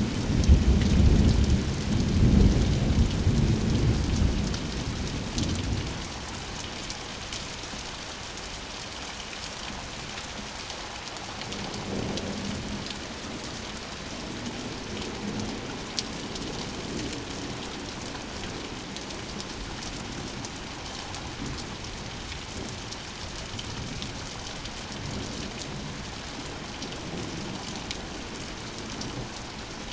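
Steady rain falling, with a roll of thunder that is loud at first and dies away by about six seconds in; fainter rumbles of thunder come a little later over the steady rain.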